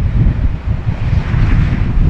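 Jet noise from a KLM Embraer E190-E2's geared turbofan engines, building up about halfway through, over heavy wind buffeting on the microphone.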